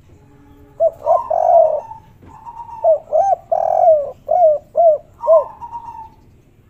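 Spotted dove cooing: two phrases of short rising-and-falling coos, each with one longer drawn-out note, the second phrase ending in three quick coos.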